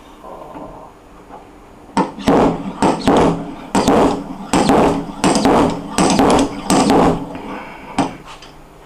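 A small hammer tapping on a car's trunk lid panel during paintless dent repair, typical of tapping down high spots: a run of quick, sharp taps, about two a second, each ringing briefly, starting about two seconds in and stopping near the end.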